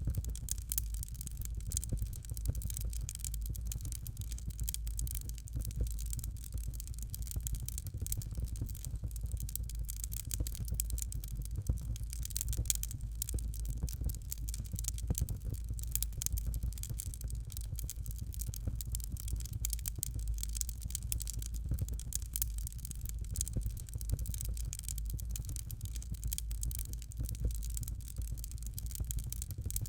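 Fireplace fire crackling steadily: a dense run of small snaps and pops over a low, constant rumble.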